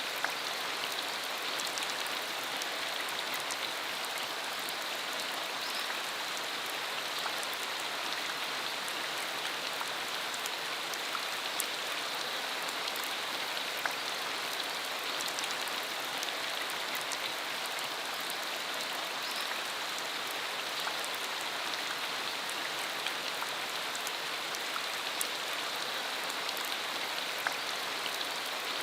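Steady rain falling, a constant hiss of noise with scattered sharper ticks of individual drops.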